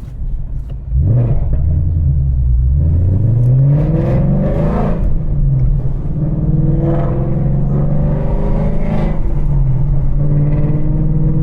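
Ford Mustang GT's 5.0 V8, breathing through longtube headers, accelerating: the revs climb steadily, drop at a gear change about four and a half seconds in, then pull again and settle into a steady run.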